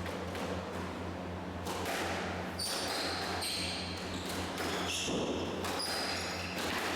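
Squash rally: a string of sharp knocks as the ball is struck by rackets and hits the court walls, with short high squeaks of shoes on the court floor, over a steady low hum.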